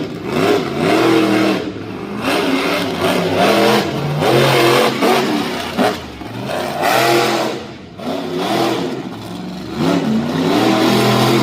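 Monster truck engine revving hard, its pitch swelling up and falling back in repeated bursts every couple of seconds.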